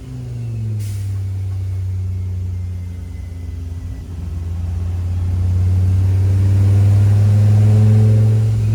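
Dodge Viper V10 race engine on a chassis dyno, heard from inside the car. The revs fall away at the start, then it runs at a steady low speed. From about five seconds in it grows louder and holds there.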